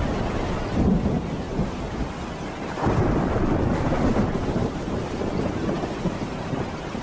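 Thunderstorm: rolling thunder over steady rain, the rumble swelling about a second in and again about three seconds in, then slowly dying away.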